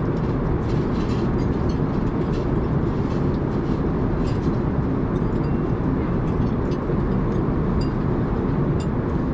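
Steady rushing cabin noise of an Airbus A380 in cruise flight, with faint light clinks of tableware scattered through it.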